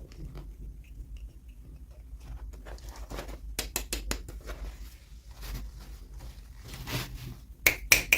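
Hands unboxing small plastic toys: scattered light clicks and rustles of packaging, getting busier about three seconds in, with two sharp clicks just before the end.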